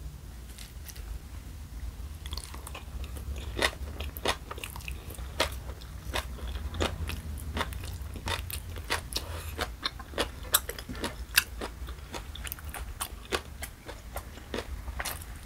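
Close-miked chewing of a mouthful of bibimbap with fresh vegetables such as lettuce. It comes as many sharp, irregular wet clicks and crunches.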